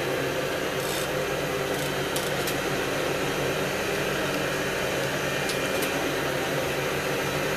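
Surface grinder running steadily with its freshly repaired hydraulics: a constant mechanical hum with a few faint ticks.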